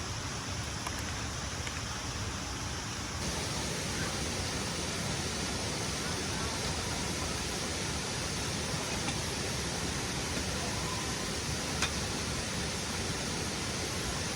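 Waterfall rushing: a steady hiss of falling water that turns brighter and a little louder about three seconds in. One sharp click sounds a couple of seconds before the end.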